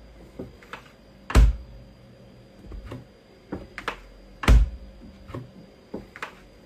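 A scatter of light clicks and knocks, with two louder thumps, one about a second and a half in and one about four and a half seconds in.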